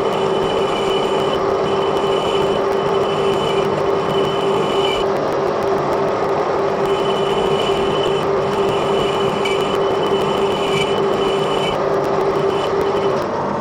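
Edgwick metal lathe running under power, taking a light cut on a bush: a steady hum with a high whine that comes and goes in stretches. The hum stops shortly before the end.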